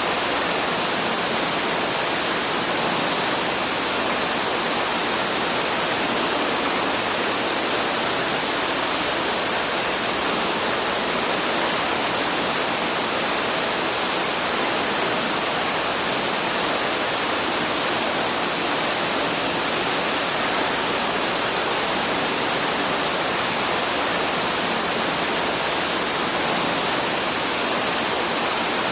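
Waterfall: falling water rushing in a steady, even hiss that never changes.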